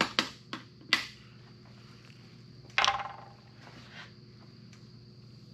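A plastic jug of motor oil being handled and opened: a few sharp clicks in the first second, then a louder plastic crackle about three seconds in.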